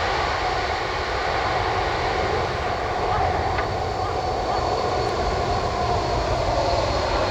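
Engines of a Boeing 767-300ER airliner running steadily at taxi power: a continuous jet rush with a faint whine.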